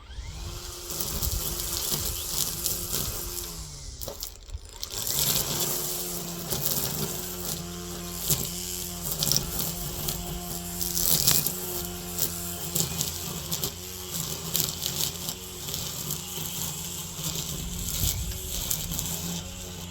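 Gas string trimmer (weedeater) motor running with a steady, high buzz, easing off briefly about four seconds in and then picking back up.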